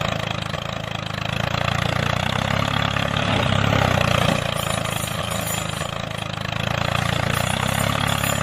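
An engine running steadily, its level swelling and easing slowly over a few seconds.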